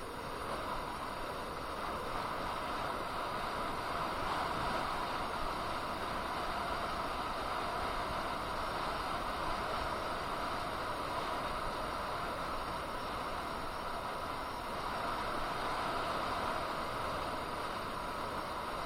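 Steady rushing wind and road noise from riding a KingSong KS18S electric unicycle, with a faint steady whine underneath.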